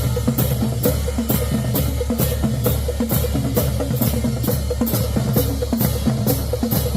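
Marching band drumline playing a cadence: snare and bass drums with sharp, evenly spaced hits about twice a second over a low drum rumble.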